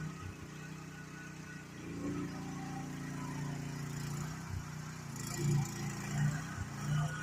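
GroundHog mini excavator's engine running with a steady hum, with three short louder surges in the last couple of seconds.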